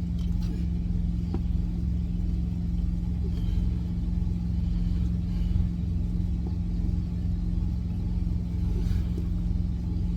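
A truck engine idles with a steady low drone and hum that does not change. A few faint clicks sound near the start.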